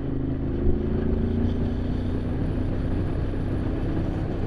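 Motorcycle engine running under way at a steady cruise, its pitch easing slightly in the first two seconds, with wind rushing over the rider.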